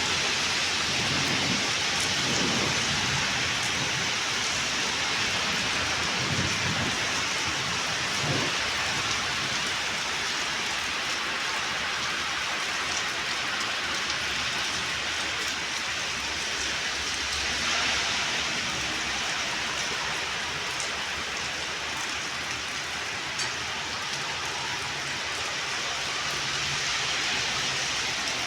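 Steady heavy rain pouring down. There are a few low rumbles in the first eight seconds or so.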